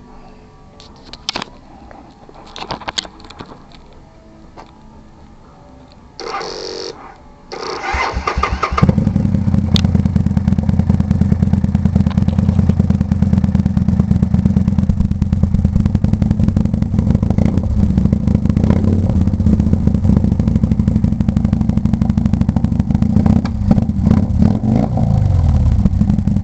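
Kawasaki Vulcan 800 V-twin with its exhaust opened up (inner pipes and second baffle removed): after a few clicks, the electric starter cranks briefly, then cranks again until the engine catches about nine seconds in. It then idles loudly and steadily, with a slight rev near the end.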